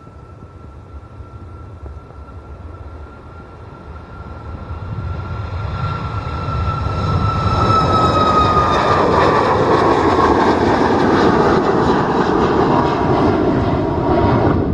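Jet airliner passing close by: its engine noise grows over several seconds to a loud rush, while a high engine whine falls in pitch as the aircraft goes past.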